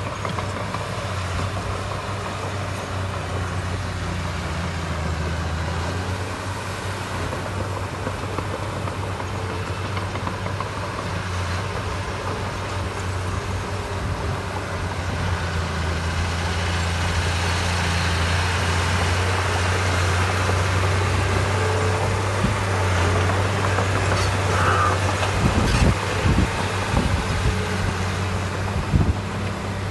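Diesel engine of heavy construction machinery running steadily at a low drone, growing slightly louder in the second half, with a few sharp knocks near the end.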